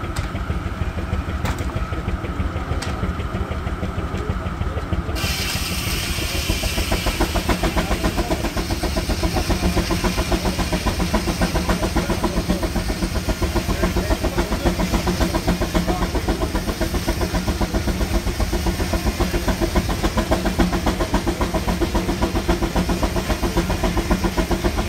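Steam traction engine running with a rapid, steady exhaust beat, belt-driving a sawmill. About five seconds in, a higher, hissing noise joins the engine and continues.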